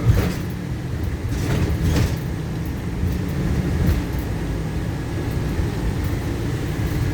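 Steady low rumble of a paratransit bus running, heard inside its cabin, with a couple of brief rattles in the first two seconds.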